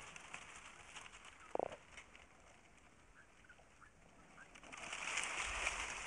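Birds calling: one short, buzzy call about a second and a half in, then a few faint chirps. A rustling noise rises near the end.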